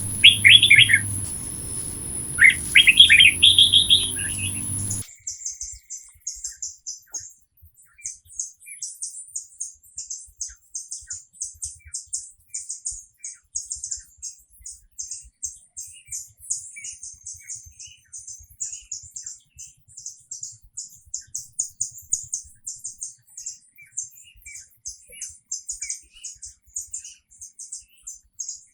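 Birds chirping. For the first five seconds, louder chirps sound over a low hum. Then the hum stops at once, and quick, very high chirps repeat several times a second, with an occasional lower chirp.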